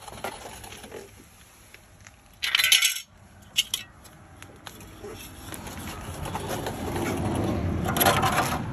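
Thin sheet-metal strip being worked and pried off an aircraft cowling: scattered metallic clicks and clinks, a short harsh scrape about two and a half seconds in, and a longer rasping noise that builds toward the end as the metal is bent and torn away from its spot welds.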